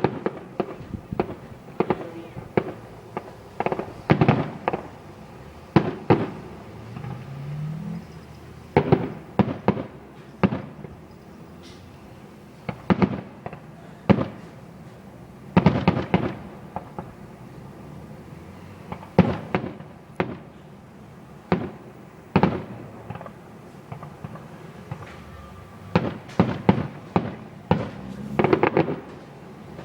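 Fireworks display: aerial shells going off in irregular bangs, a few seconds apart, with a quick run of crackling pops near the end.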